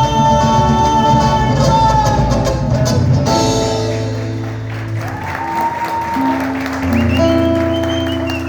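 Live band music with a female singer holding long notes over sustained chords, and applause over the music.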